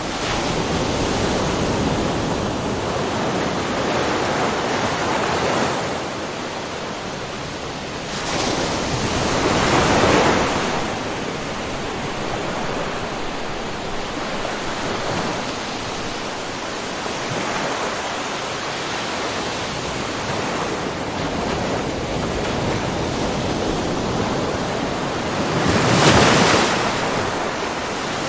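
Ocean waves breaking and washing in a continuous surf, with two louder swells: one about a third of the way in, the other near the end.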